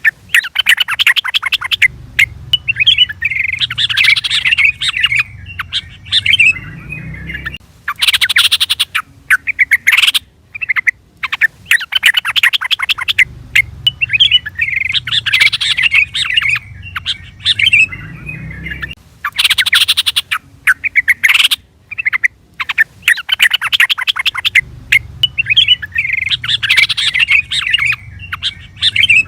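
Yellow-vented bulbul (trucukan) calling in loud bursts of rapid, bubbly chattering phrases. The same sequence repeats about every twelve seconds, as a looped lure-call recording.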